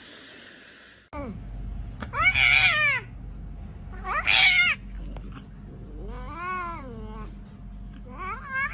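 Cat meowing: four drawn-out meows, each rising and then falling in pitch, the middle two the loudest, over a steady low hum. A short hiss of noise comes before the first meow.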